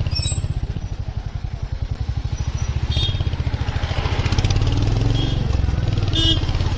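Royal Enfield Hunter 350's single-cylinder engine idling in slow traffic with a steady, rapid low thump. Two brief high-pitched chirps come through, about three and six seconds in.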